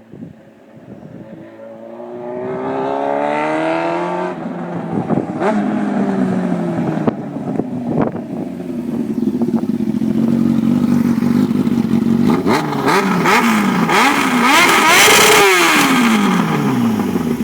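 Kawasaki ZXR750 inline-four sport bike engine revved through a titanium Racefit Growler exhaust with Micron headers. It climbs in one long rev, settles, then gives a string of quick throttle blips. Near the end it reaches a high rev that bounces on the rev limiter, then drops back to idle.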